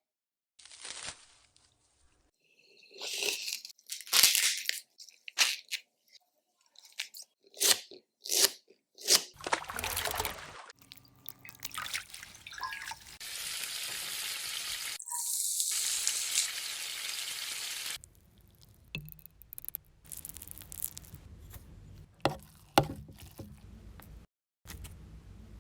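Kitchen food-preparation sounds: a string of sharp crunches, snaps and knocks, then a steady hiss for about eight seconds in the middle, then quieter handling with a few clicks.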